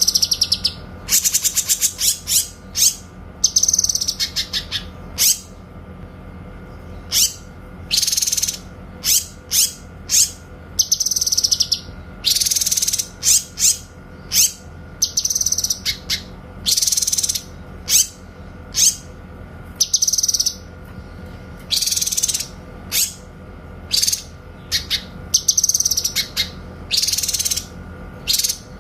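Cucak kinoy bird giving loud, sharp, high-pitched 'tembakan' calls over and over, short shot-like bursts mixed with calls of about half a second, coming roughly once a second.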